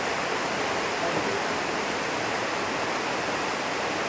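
Heavy typhoon rain falling in a steady, even downpour.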